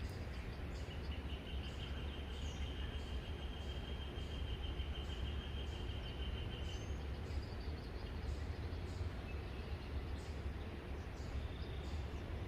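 Outdoor pond-side ambience with no one speaking: a steady low rumble under small birds chirping, and a high, steady trill that starts about a second in and lasts about six seconds.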